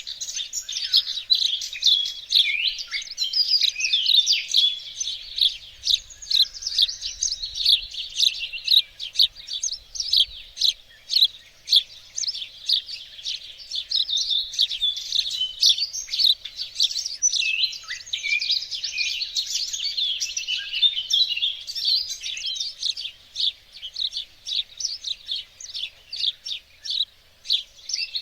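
Songbirds singing in a garden: a dense, continuous chorus of quick, high chirps and trills, several birds overlapping.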